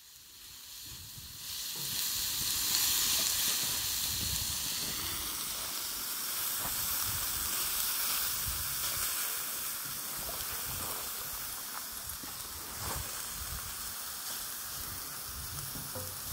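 Diced vegetables sizzling on a hot flat-top griddle, a steady hiss that fades in over the first couple of seconds, with a few light knocks now and then.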